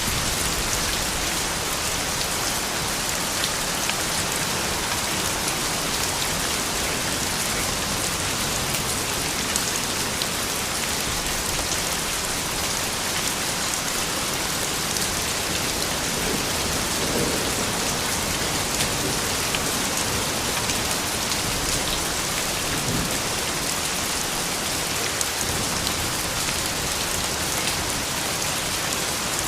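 Steady soft rain falling, an even hiss of rain with many small drop ticks on surfaces.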